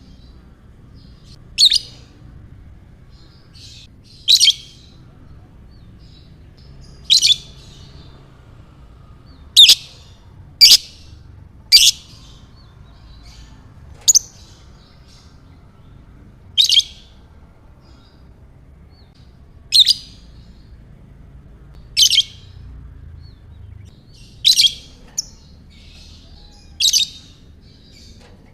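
Lovebird giving short, sharp, shrill chirps, about a dozen of them, each a fraction of a second long and spaced two to three seconds apart, over a faint steady background hum.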